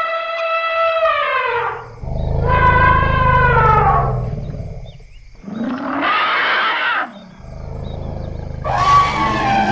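Elephants trumpeting: a run of four or five loud, pitched calls, several sliding down in pitch at the end, with a deep rumble under two of them.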